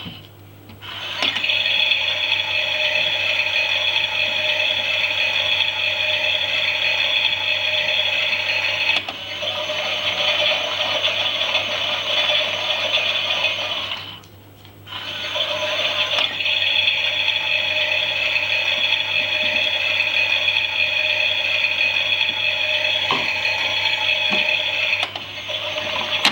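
Small battery motor of a toy Miele washing machine turning its drum, a steady whine with plastic rattling. It stops briefly shortly after the start and again about halfway through, then starts up again, like a wash cycle's tumbling pauses.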